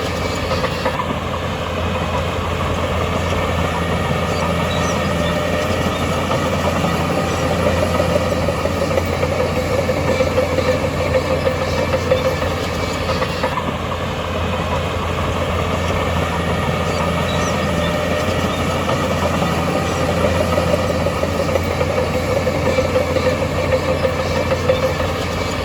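Heavy diesel construction machinery engine running steadily.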